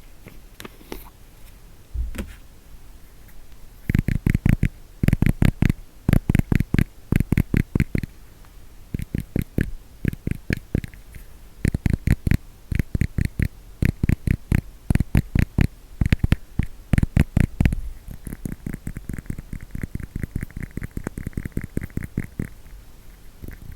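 Fast tapping on a hair wax case, mostly in quick runs of taps a second or two long with short pauses between them. Only a few scattered taps come in the first few seconds.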